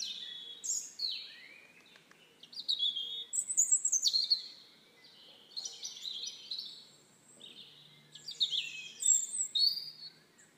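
Birds singing outdoors: quick, high chirps and whistled phrases, many sliding down in pitch, coming in about four bouts with short pauses between.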